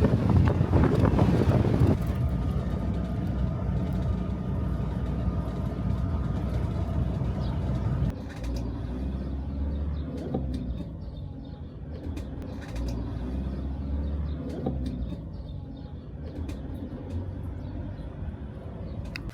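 Camper van driving: steady low engine and road rumble with a faint whine. The sound is loudest for the first couple of seconds and drops abruptly to a quieter, different rumble about eight seconds in.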